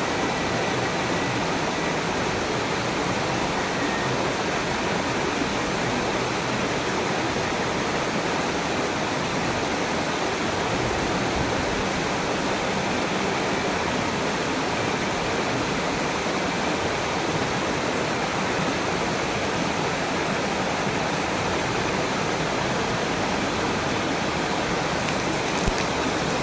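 Waterfall rushing steadily, a dense even noise of falling water, with a few faint knocks near the end.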